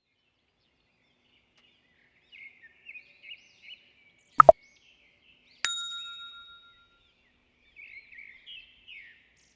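A bell-like ding rings out once past the middle and fades over about a second. Around it there is light bird chirping, and just before the ding come two quick sharp knocks.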